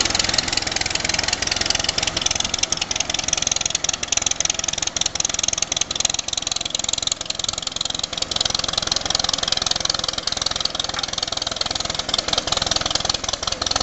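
Restored antique tractor engine running steadily at idle, with an even, rapid firing beat.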